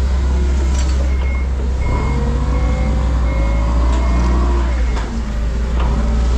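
Forklift reversing alarm beeping steadily about every two-thirds of a second, starting about a second in, over a diesel engine running under load whose pitch rises about two seconds in. A few short metallic knocks.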